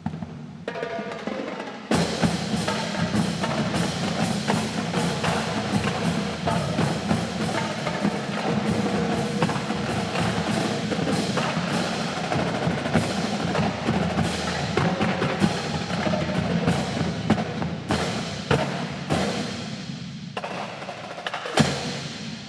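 Marching drum line playing a fast, dense battle cadence of snare, tenor and bass drums with rolls. It starts softly, comes in full and loud about two seconds in, and ends with a sharp hit near the end.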